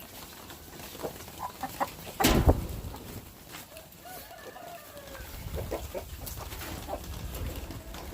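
Chickens clucking, with a rooster crowing once about four seconds in. A loud thump a little over two seconds in is the loudest sound, and a low rumble sets in about five seconds in.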